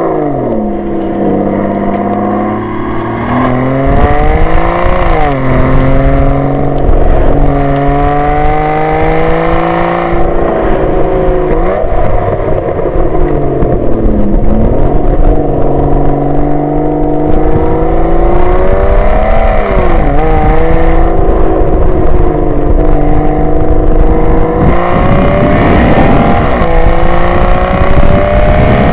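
Mountain bike giving off a loud, engine-like droning tone whose pitch climbs and falls again and again, like a car revving through its gears.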